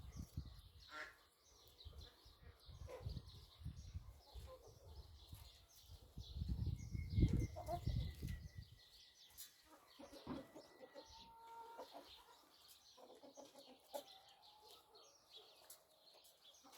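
Domestic chickens clucking, with short calls scattered throughout. A low rumble comes and goes and is loudest about six to eight seconds in.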